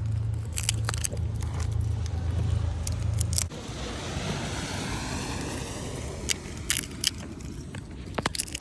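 A low, steady engine hum that cuts off suddenly about three and a half seconds in, with scattered sharp clicks and crackles throughout.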